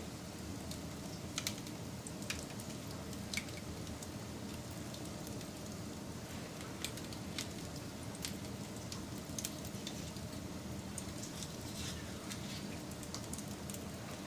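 Wood fire burning with irregular crackles and pops, a few sharp snaps every second or so over a steady low rush of the flames.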